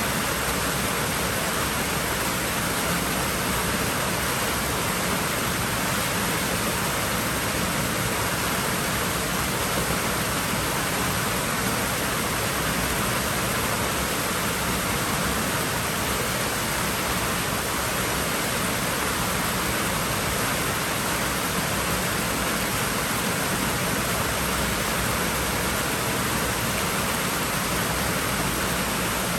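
Steady rushing of water at a swimming pool, an even hiss without pauses or splashes.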